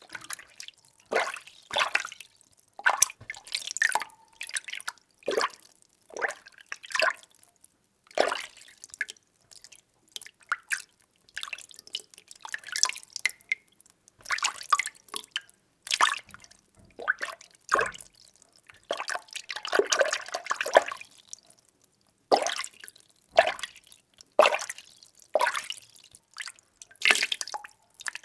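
Water being stirred, sloshing and splashing in irregular strokes roughly once a second, with a longer churning swirl about two-thirds of the way through.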